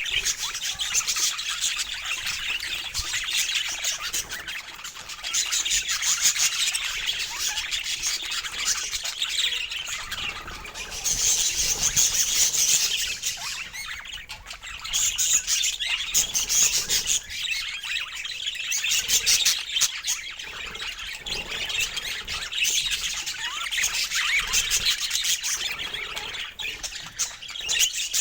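Budgerigars chattering: a steady stream of overlapping chirps, warbles and squawks that swells and fades in bouts.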